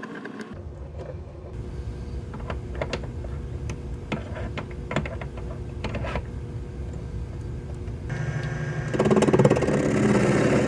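Proxxon PD250/E mini lathe running, its motor giving a steady whir with sharp clicks and ticks scattered through, growing louder in the last couple of seconds.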